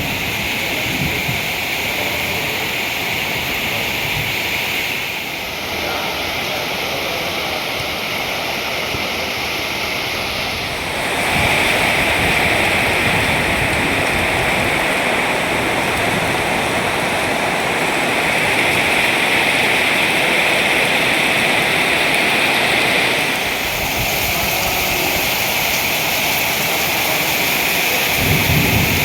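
Heavy rain pouring down steadily in a rainstorm, growing louder about a third of the way in and easing slightly near the end.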